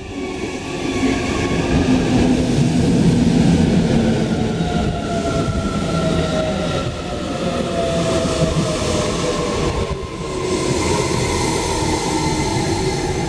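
Electric commuter train gliding slowly along the platform while braking: a rumble of wheels on rail, with the motor whine falling slowly in pitch and a light squeal from the wheels and brakes.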